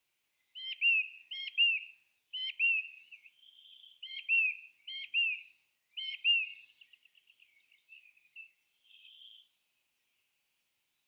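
A songbird singing: a run of short, sharp notes each sliding down in pitch, repeated about every second, then a fast trill about seven seconds in and a few softer notes.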